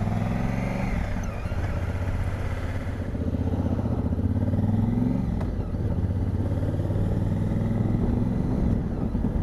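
Honda Africa Twin's parallel-twin engine running under way, its note rising and falling with the throttle, over steady wind and road noise.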